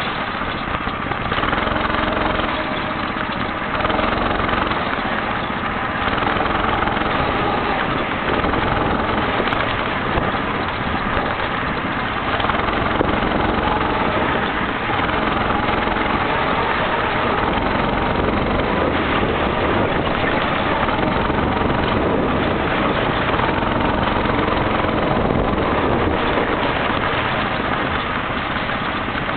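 Engine of a homemade motorcycle running while being ridden, its pitch and loudness shifting with the throttle.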